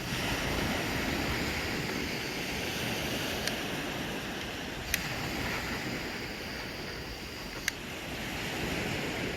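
Steady rush of ocean surf mixed with wind on the microphone, broken by a few sharp clicks.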